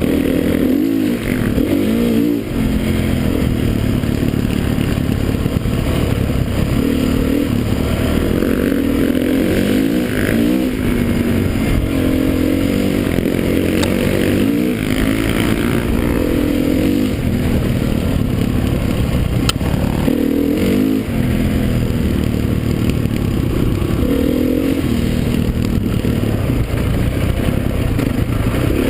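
Motocross bikes' engines racing, their pitch rising and dropping again and again as the riders open and close the throttle, over the steady drone of more bikes.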